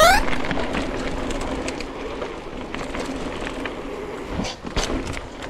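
Mountain bike rolling over a stony forest road: a steady tyre rumble with scattered clicks and rattles, a few sharper knocks near the end.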